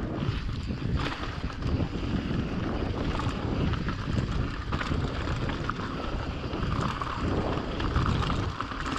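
Mountain bike riding down a dirt trail: wind buffeting the camera's microphone over the rumble of the tyres, with irregular clicks and knocks from the bike rattling over rough ground.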